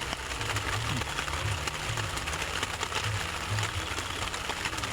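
Someone eating close to the microphone: soft chewing and small clicks of a spoon on the plate, over a steady hiss.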